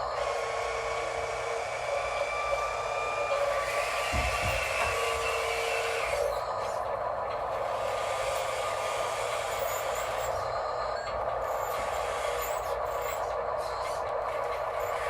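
Steady electric whine of radio-controlled construction machinery, with several whining tones that hold and then shift in pitch as the machines work.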